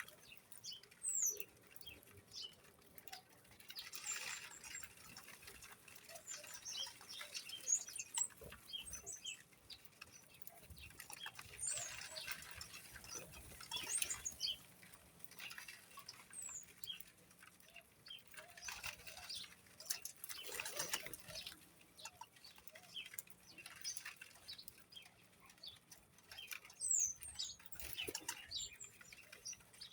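Small birds chirping in short, high, falling notes, with repeated flutters of wings and scratchy rustling among them.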